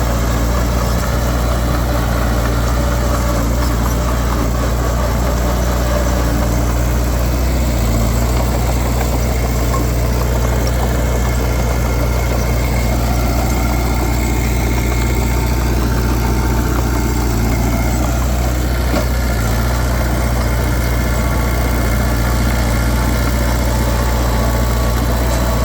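Heavy diesel engine of earthmoving machinery running steadily at low revs, with a deep, even hum.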